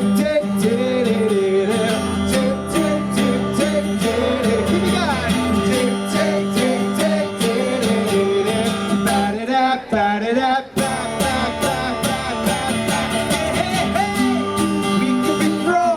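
Live pop-rock band music: a strummed acoustic guitar under voices singing a wordless "la la" sing-along melody. The sound briefly thins and drops about ten seconds in.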